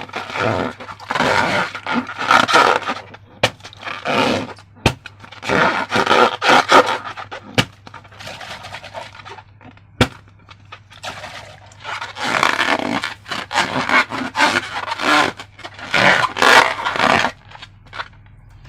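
Irregular bursts of scraping and rubbing from hands working a balloon and slime, with a few sharp clicks scattered through.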